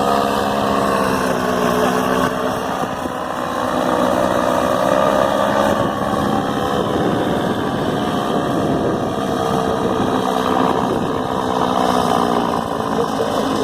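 Paramotor engine and propeller running steadily under power in flight, its pitch drifting slowly up and down.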